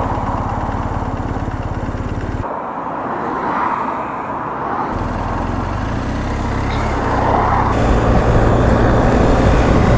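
BMW R 1250 GS Adventure's boxer-twin engine idling, with road traffic around it. The low engine pulse drops out for a couple of seconds, comes back about five seconds in, and is louder near the end.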